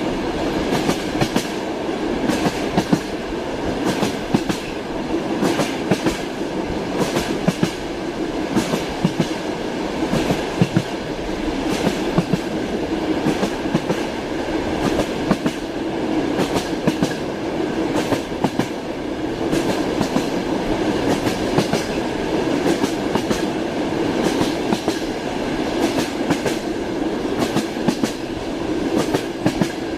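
Train wheels clattering over rail joints in a continuous clickety-clack, over a steady rolling rumble.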